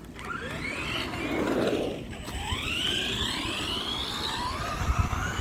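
Electric motor of a 4x4 RC truck whining as it accelerates, its pitch rising several times, with tyre and drivetrain noise over the ground and a few low thumps near the end.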